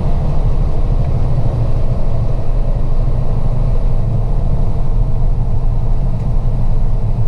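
Semi-truck engine and road noise heard from inside the cab: a steady, loud low rumble while the truck is under way.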